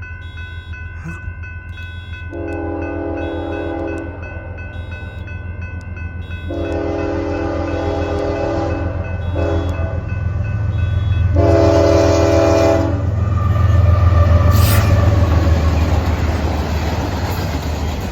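Norfolk Southern freight locomotive sounding its horn for the grade crossing in the standard long, long, short, long pattern, its engine rumble growing as it approaches, then the train passing the crossing with rail noise. A repeating high ringing tone sounds during the first few seconds.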